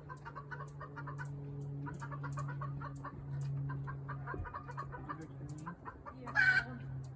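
Bantam chickens clucking in rapid runs of short notes, with one louder squawk about six seconds in, over a steady low hum. It is the alarm clucking of hens with a Cooper's hawk inside their run.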